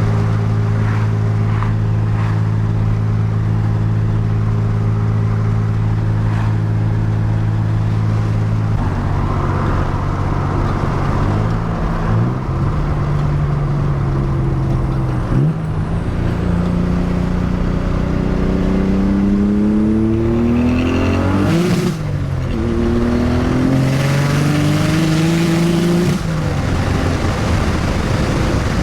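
Nissan 300ZX twin-turbo V6 engine heard from the driver's seat. It cruises at a steady note for the first third, then pulls hard with the pitch rising, breaks sharply about three-quarters through and climbs again with a hiss from the open-dumped wastegates under boost, then drops off near the end as the throttle is lifted.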